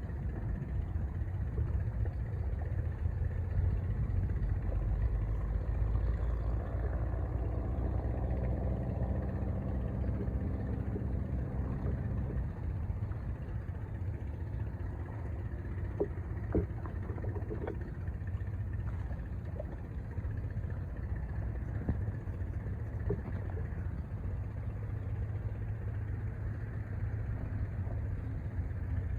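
Steady low rumble of a large cargo ship's engine passing on the river, with the engine's pitched hum coming through more clearly for several seconds in the first half. A few faint knocks come a little past the middle.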